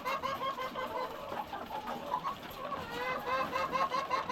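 A flock of chickens feeding, many birds at once giving short, overlapping clucks and calls.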